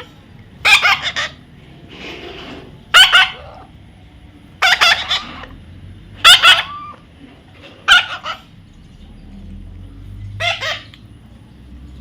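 Baby parrot squawking: about six loud, harsh calls, one every one and a half to two seconds.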